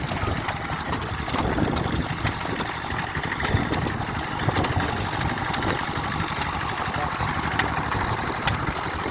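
Vintage stationary engines running at idle, a dense irregular chugging with sharp ticks scattered through it.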